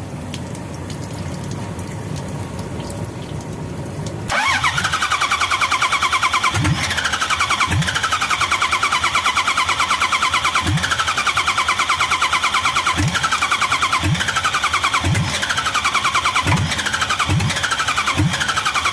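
Starter motor cranking the rebuilt engine of an old Toyota forklift. It starts about four seconds in and keeps turning the engine over with a rapid, even chug of compression strokes. The engine does not catch and run.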